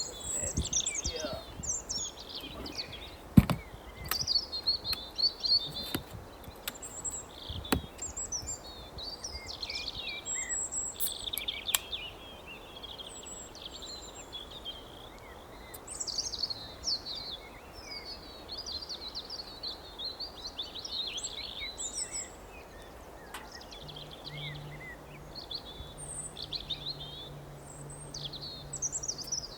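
Several songbirds singing and chirping continuously. A few sharp knocks or clicks cut in during the first dozen seconds, the loudest about three and a half seconds in, and a faint low hum joins in the last few seconds.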